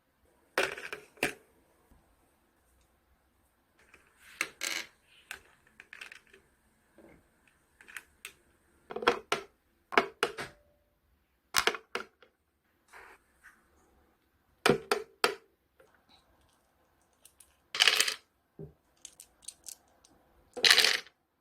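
Irregular clinks, taps and knocks of dishes and utensils as cat food is set out: about a dozen short, sharp strikes with quiet pauses between, some ringing briefly, the loudest two near the end.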